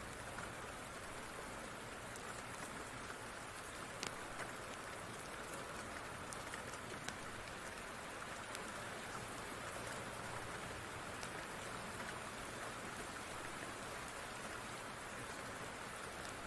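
Steady rain falling, an even hiss with a few sharp pops now and then.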